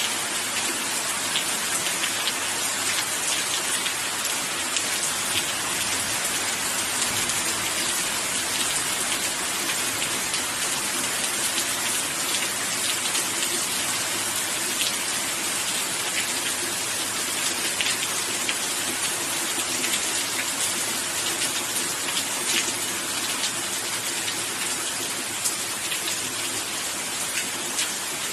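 Steady rain falling, a continuous hiss with many small drop ticks on a surface.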